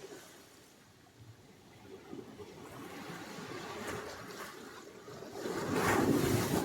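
Sea surf washing onto the shore, swelling gradually; a wave breaks loudest near the end, then the wash recedes.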